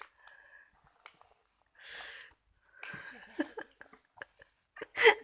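A young child eating instant noodles: chewing and slurping, with short breathy puffs, then a brief loud vocal sound near the end.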